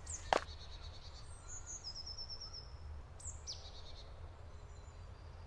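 Quiet forest ambience with small birds calling over a low steady rumble: a quick run of high repeated notes about two seconds in, then a high call sliding downward a little after three seconds. One crunch on the gravel path near the start.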